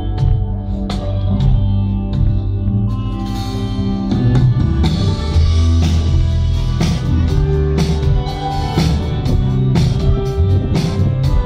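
Band music with guitar, bass and drums, played through a sound system at a sound check, on a steady beat that grows busier about five seconds in.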